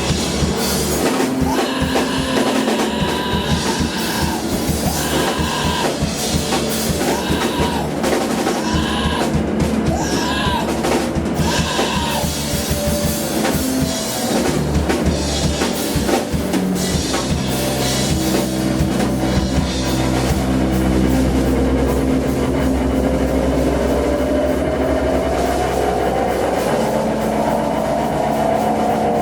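Live band music with a drum kit playing busily over bass. In the second half the drums thin out, leaving sustained low bass and a slowly rising pitched tone.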